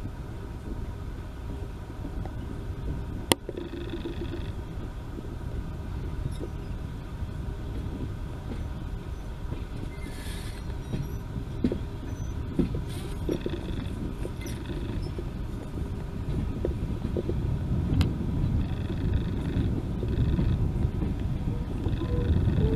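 Train on a heritage railway running: a steady low rumble that grows louder near the end, with a few sharp clicks.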